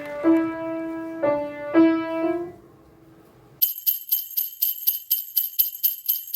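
A few piano notes played and left to ring, then after a short pause jingle bells shaken in a quick, even rhythm of about four shakes a second.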